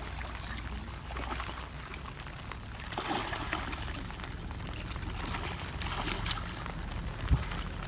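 Water trickling and sloshing, with a few light splashes, and a sharp thump about seven seconds in.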